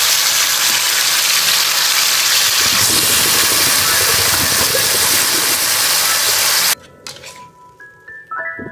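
Eggplant and scallions sizzling loudly as they stir-fry in a wok, a steady hiss that cuts off suddenly about two-thirds of the way through. A few clicks and soft music follow near the end.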